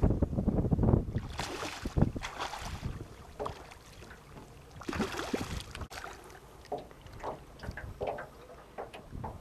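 Wind buffeting the microphone in gusts, with irregular splashing and sloshing of water around a small boat.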